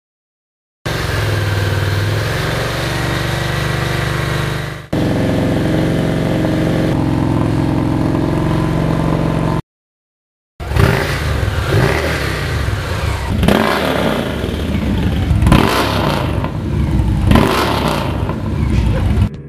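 A Victory motorcycle's V-twin heard through its exhausts in spliced sound bites from stock and aftermarket mufflers. First the engine runs steadily in two clips joined by an abrupt cut. Then, after a brief gap, it is revved with about four quick throttle blips, each rising and falling.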